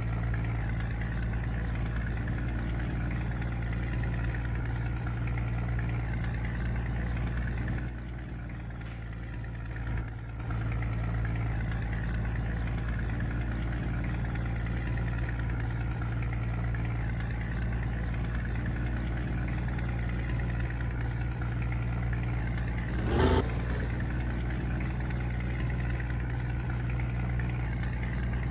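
Scania G124 truck's inline-six diesel engine running steadily. It drops off for about two seconds about eight seconds in, and a short, sharp sound cuts through about 23 seconds in.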